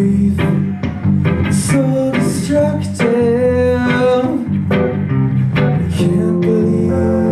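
Live band music led by guitar over bass guitar, with regular sharp hits keeping the beat; a held chord comes in about six seconds in.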